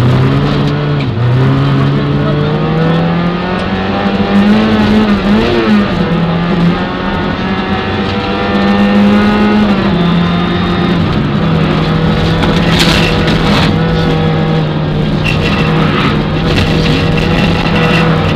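Peugeot 205 rally car's four-cylinder engine heard from inside the cabin, revving up and shifting up several times in the first ten seconds, then running at steady high revs. A few sharp clatters come about 13 seconds in.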